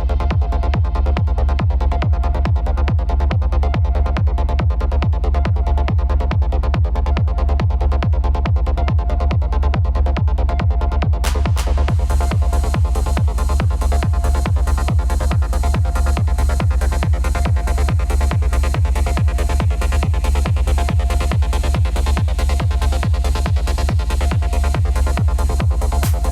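Techno played in a DJ set: a steady, heavy kick drum beat under sustained synth tones, with the high end suddenly opening up about eleven seconds in.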